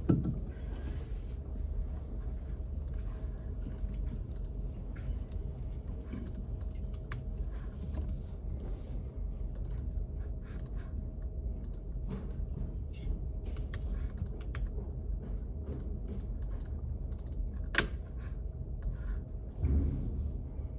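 Study-space room tone: a steady low rumble with a faint steady hum, over which come scattered light clicks and taps like typing on a keyboard, with a sharper click near the end and a low thud just after it.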